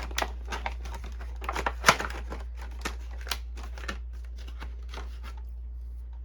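Quick clicks and rustling of small plastic parts and paper being handled, loudest about two seconds in and thinning out after about four seconds, over a steady low hum.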